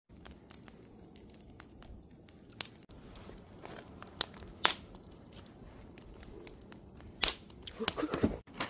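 Wood fire crackling, a low steady hiss broken by scattered sharp pops and snaps, with a couple of loud pops a little after four seconds and about seven seconds in.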